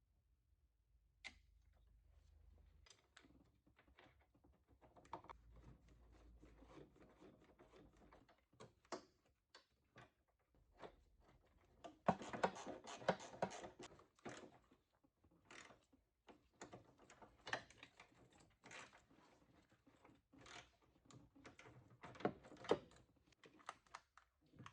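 Scattered clicks and knocks, with a busier run of clattering knocks about halfway through.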